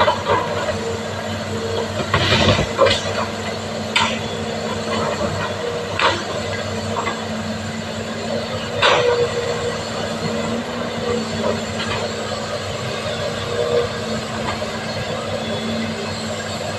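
Excavator's diesel engine running steadily under work, with a constant hum and a few sharp metallic knocks, about one every two seconds at first, then further apart.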